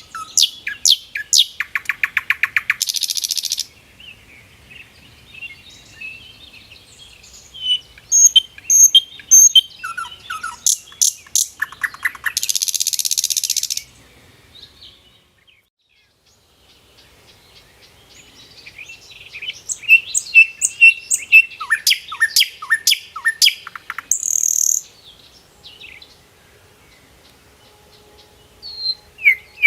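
A songbird singing in three phrases of rapid chirps and trills, each ending in a harsh buzzy note, with short quiet pauses between phrases.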